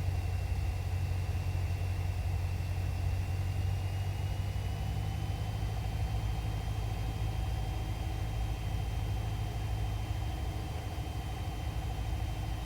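Cessna 172's piston engine and propeller running steadily, heard inside the cabin, with a faint thin high whine that rises slightly in pitch partway through.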